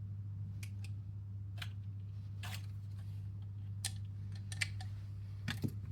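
Scattered small clicks and taps of airsoft rifle parts being handled and fitted together during reassembly, over a steady low hum.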